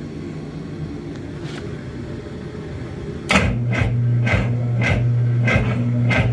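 Jet ski engine cranking on its electric starter, which starts about halfway through: a steady starter-motor hum with slow, regular compression beats about twice a second. The engine turns over but does not fire; the cranking is slow from too little power or poor connections in the makeshift starter wiring.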